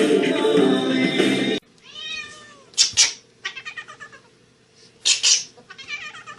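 Music stops abruptly about a second and a half in, and a cat takes over, meowing and yowling in drawn-out, bending calls. Two loud, short, hissy bursts break in, about three seconds and five seconds in.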